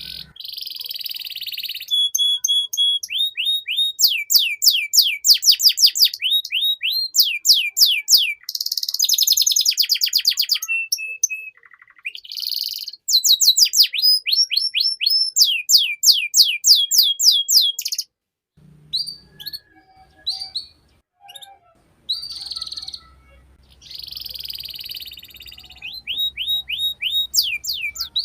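Domestic canary singing a long song of fast trills and rapid runs of repeated sweeping notes. It breaks off about two-thirds of the way through into shorter, softer phrases over a faint low hum, then picks up into full trills again near the end.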